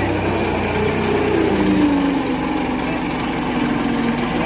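Tractor's diesel engine straining to pull a loaded, stuck tractor free: a low running note that changes about a second in to a higher engine note, which sags a little and holds under load.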